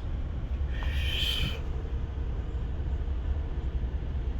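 Steady low rumble of car cabin noise from the engine and road, with a brief high-pitched noise about a second in.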